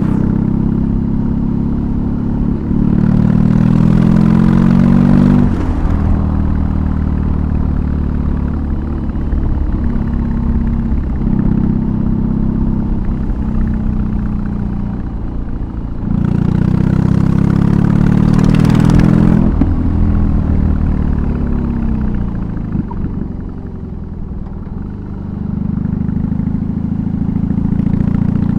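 BMW R18's big boxer twin running through a custom exhaust while riding, the revs climbing twice, about three seconds in and again past the middle, each time with a rush of wind. It eases off for a few seconds near the end and then picks up again.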